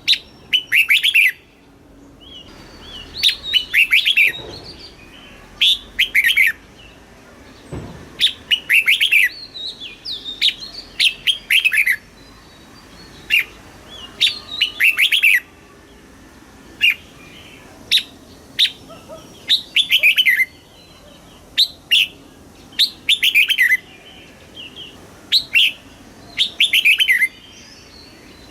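Red-whiskered bulbul singing: short phrases of quick, sliding whistled notes, repeated every second or two with brief pauses between them.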